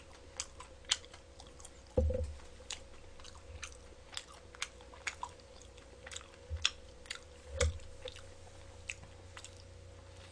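A person chewing crispy fried chicken with the mouth close to the microphone: a loose run of small, sharp crunching clicks, with a couple of dull low thumps, at about two seconds in and again near eight seconds.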